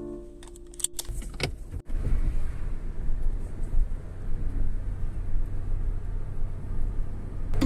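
A few sharp clicks about a second in, then the steady low rumble of a car's cabin while driving.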